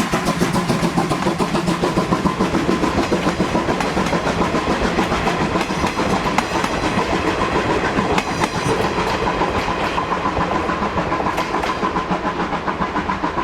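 Moka Railway steam train running past, with a steady rapid rhythm of beats and wheels clattering over the rails.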